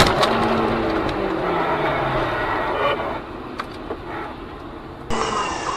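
Road vehicle noise with an engine tone falling in pitch over the first two seconds or so, after a sharp bang at the very start. A few faint knocks follow, and about five seconds in the sound changes abruptly to a different recording.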